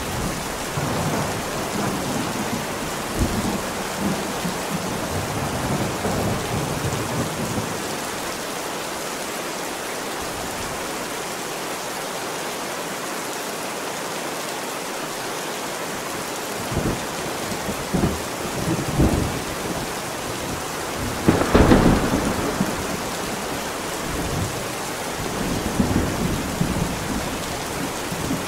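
Heavy steady rain with rolling thunder: low rumbles in the first few seconds, a quieter stretch of rain alone, then several sharper thunder claps from about two-thirds of the way in, the loudest near the end.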